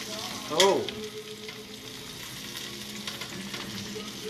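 Breaded chicken breasts sizzling as they fry in butter and oil in a stainless steel skillet, a steady hiss. A brief, louder sound with a bending pitch stands out about half a second in.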